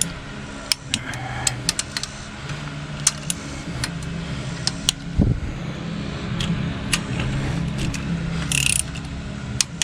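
Scattered sharp metallic clicks and taps of a wrench and socket working on engine cylinder head bolts, with a heavier knock about five seconds in, over a steady low engine-like hum.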